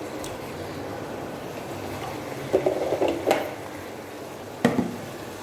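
Chicken curry cooking in a pan with its spice pastes, a steady sizzle and bubble, broken by a few clatters of kitchenware about halfway through and one sharp knock near the end.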